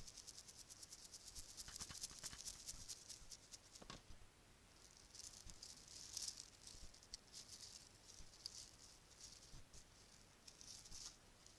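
Bracelets shaken and rattled close to the microphone, soft and high-pitched: a fast run of small clicks for about four seconds, then looser, on-and-off rattling.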